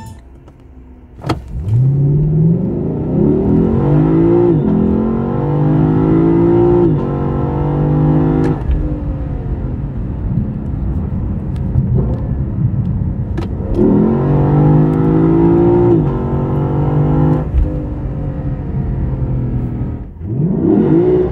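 Lexus LC 500's 5.0-litre V8, heard from inside the cabin, at full throttle: after a sharp click about a second in, the engine note climbs and drops back at each quick upshift. It eases to a steadier note midway, then pulls hard again with more upshifts and starts climbing once more near the end.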